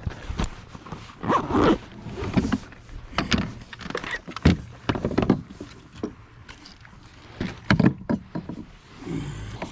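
Irregular knocks, thumps and rustles of gear being handled aboard a fishing kayak.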